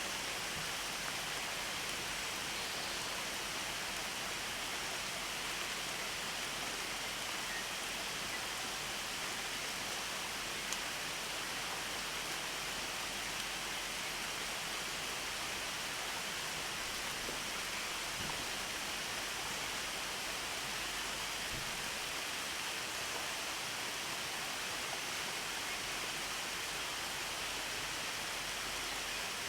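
Steady rain falling, an even continuous hiss, with one faint tick about eleven seconds in.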